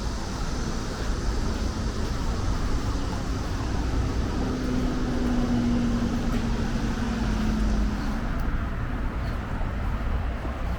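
Steady low rumble of road traffic, with a passing vehicle's hum sinking slightly in pitch midway, and a high hiss of cicadas that drops away about eight seconds in.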